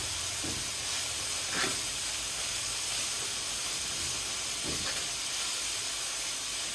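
Chopped bacon frying in a pan, with a steady, even sizzle.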